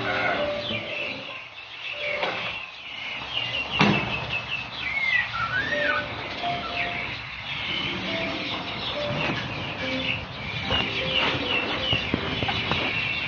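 Small birds chirping and twittering in quick short notes, with one whistled note that rises and falls about five seconds in and a sharp click a little before it.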